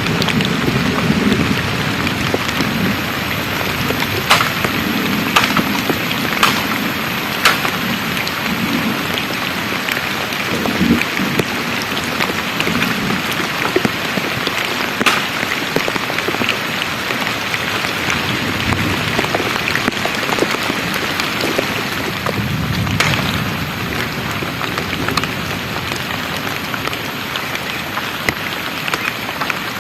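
Heavy rain pouring steadily, with a few sharp, louder drop strikes now and then and low rumbles underneath.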